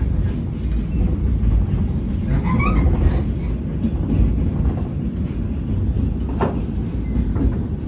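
Steady low rumble of a Vietnam Railways passenger train running along the track, heard from inside the carriage, with a single sharp knock near the end.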